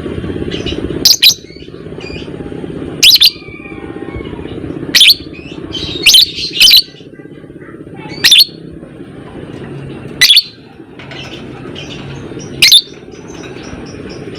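A lovebird giving loud, shrill chirps every second or two, sometimes two in quick succession, over a steady low background hiss.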